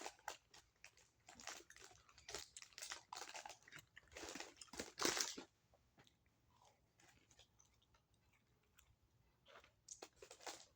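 A person chewing and biting a sandwich close to the microphone. The mouth sounds are loudest about five seconds in, quieter for a few seconds after that, then pick up again near the end.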